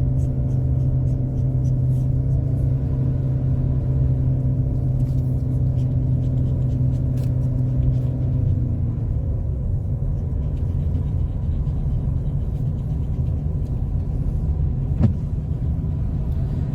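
Car engine and tyre rumble heard from inside the cabin on a snowy road, the car held in a lower gear for engine braking downhill. A steady engine hum fades about eight seconds in, leaving the road rumble, with a single click near the end.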